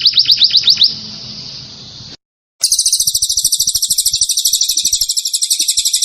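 Recorded songbird song: a string of quick descending whistled notes that fades into a soft trill, then after a short break a very fast, high, buzzy trill held for several seconds.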